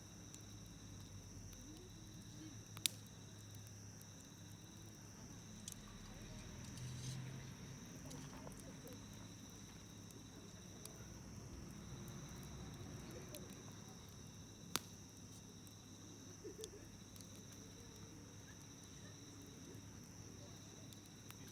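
Wood campfire crackling faintly, with scattered sharp pops; the two loudest come about 3 and 15 seconds in. Behind it, a steady high trilling of insects, crickets by the sound of the tags.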